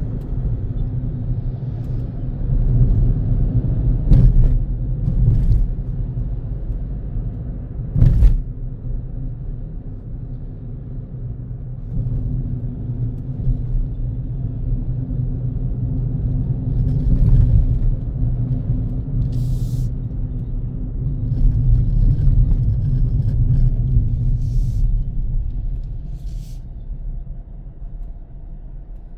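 Car driving: steady low rumble of engine and road noise, with a few sharp knocks, the loudest about eight seconds in.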